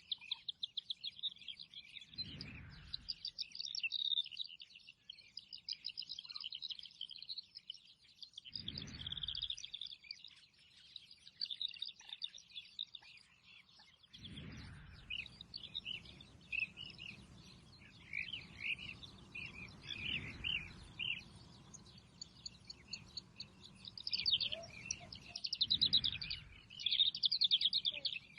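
Many small birds chirping and twittering together in a dense, continuous chorus of quick high notes. A low rumble comes and goes underneath a few times, about two and nine seconds in and again through most of the second half.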